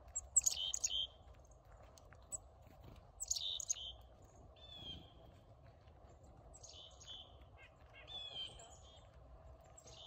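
A small songbird calling over and over, five short, buzzy, high calls a second or two apart.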